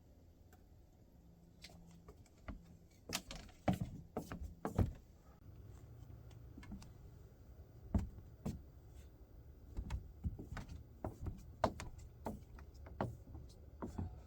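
A run of irregular knocks and clicks, as of things being handled and set down. There is a busy cluster a few seconds in and more scattered through the rest, over a low steady hum.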